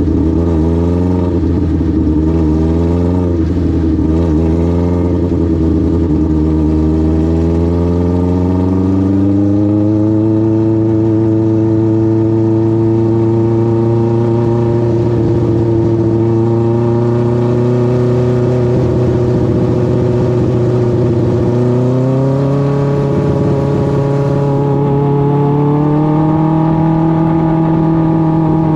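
Dwarf car's Suzuki GSX-R1000 inline-four motorcycle engine running. The revs waver at first, climb and hold steady, then rise again near the end.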